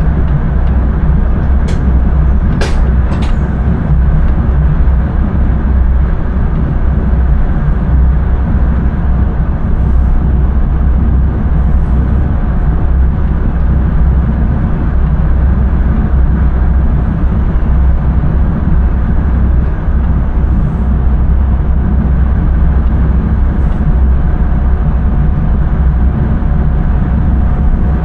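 Steady low running rumble of an electric intercity train, heard from inside the driver's cab, with a few sharp clicks about two to three seconds in.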